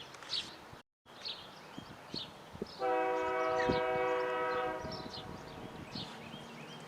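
A New York and Atlantic Railway freight locomotive's air horn sounds one steady blast of about two seconds, a little under halfway in. Birds chirp throughout.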